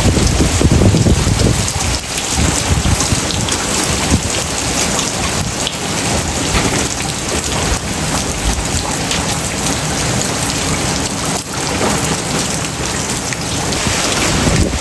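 Heavy tropical rain pouring down steadily, with gusts of wind buffeting the microphone as a low rumble during the first two seconds.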